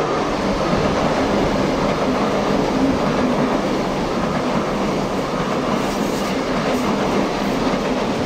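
Pendolino ED250 electric high-speed trainset passing at speed on the adjacent track: a loud, steady rolling rush of wheels on rail, with a few faint clicks near the end.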